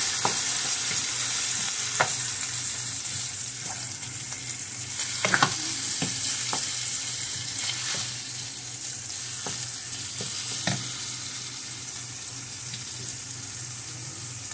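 Ground turkey, ham and onion sizzling in olive oil in a nonstick frying pan, stirred with a wooden spoon that knocks and scrapes against the pan every second or two.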